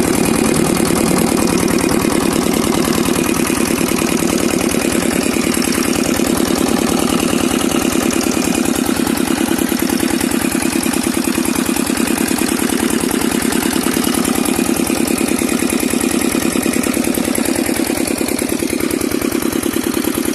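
10 HP single-cylinder diesel engine driving an irrigation water pump, running steadily with a rapid, even beat.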